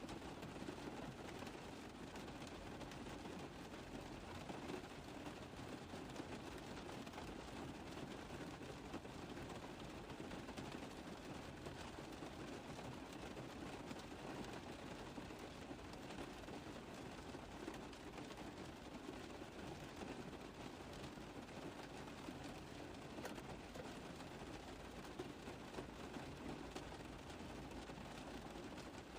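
Rain falling steadily on a car roof, a dense patter of drops over an even hiss.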